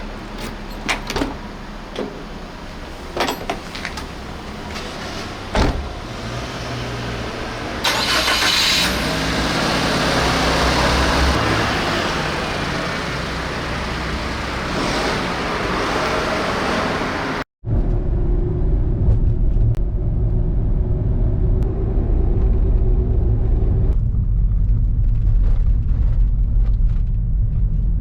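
A car driving: engine and road noise with scattered knocks and clicks, then, after a sudden cut about two-thirds in, a steady deep rumble.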